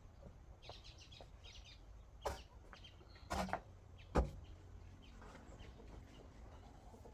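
Chickens clucking softly, with a few short sharp calls or knocks about two, three and a half and four seconds in, the last the loudest.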